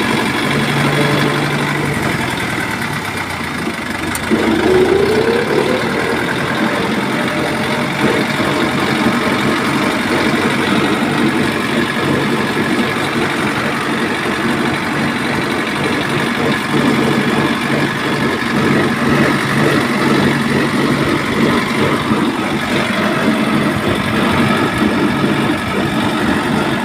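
A mini tractor's motor running steadily with a dense rattle; its pitch rises briefly about four seconds in.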